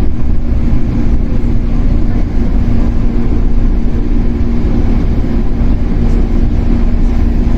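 Shinano Railway 115-series electric train motor car (KuMoHa 115-1013) running at a steady pace, with a continuous rumble of wheels and bogies on the rails and a constant hum.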